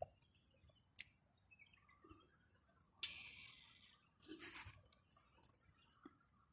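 Near silence, broken by a few faint scattered clicks and two short rustles about three and four and a half seconds in.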